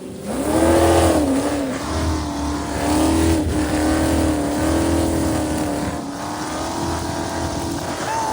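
Engine running at steady high revs, its pitch holding with slight wavers.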